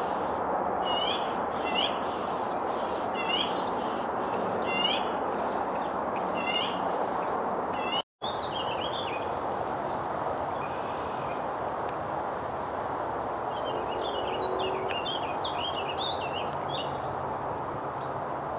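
Small birds calling: a short, high call repeated about every second and a half for the first seven seconds, then, after an abrupt cut, a different run of quick chirps, over a steady background rush.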